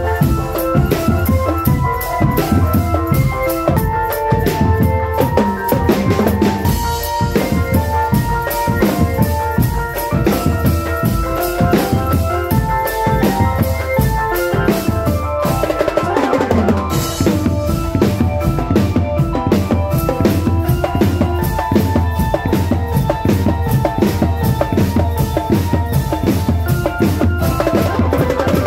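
A marching drum band playing: fast snare and bass drum beats under a steady, held melody.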